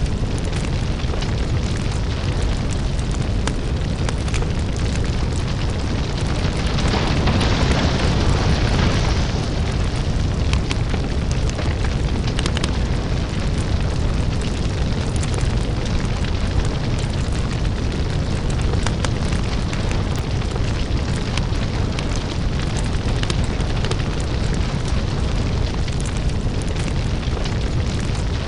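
Crackling lava fire ambience: a steady deep rumble with scattered sharp crackles and pops. It swells into a louder hiss for a few seconds about seven seconds in.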